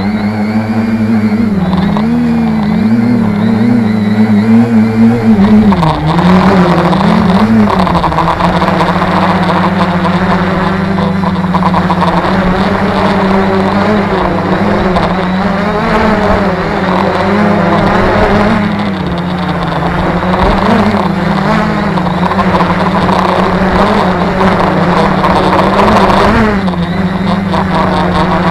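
Tarot 650 quadcopter's electric motors and propellers humming steadily in flight. The pitch wavers up and down through the first several seconds, then mostly holds, as the flight controller speeds and slows the motors to hold position in gusty wind.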